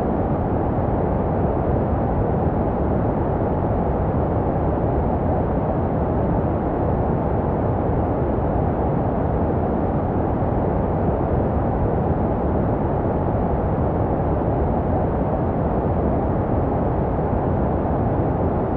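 Steady, muffled rushing white noise with its weight in the low and middle range and little treble, made for soothing babies and shaped to resemble the sound heard inside the womb. It runs on evenly without any change.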